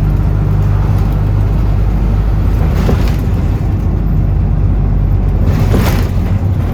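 Bus engine running with a steady low drone, heard on board. Two brief rushes of hiss come through, about three seconds in and again near the end.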